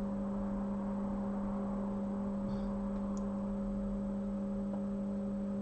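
Steady electrical hum at a constant level, one low tone with a few fainter ones above it, over low background hiss.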